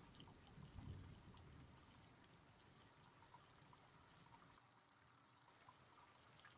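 Faint, steady rain with small scattered drips, and a brief low rumble about a second in.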